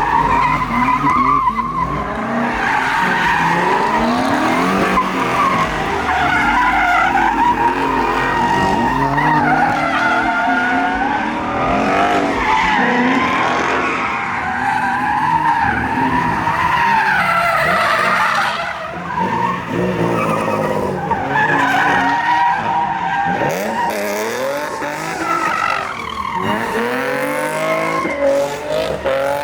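Car tyres squealing in long, wavering skids, with engines revving under them.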